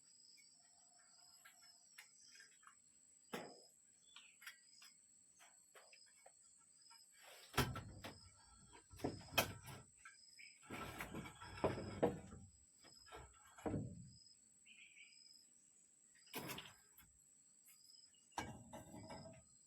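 Scattered knocks, thunks and rustling of objects being handled, busiest in the middle, over a steady background of insects chirping in a regular pulse.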